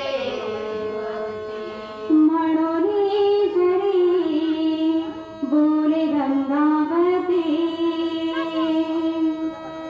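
Woman singing a long, drawn-out devotional bhajan line that bends up and down in pitch over steady held accompaniment notes. The voice comes in louder about two seconds in and breaks briefly for a breath a little past the middle.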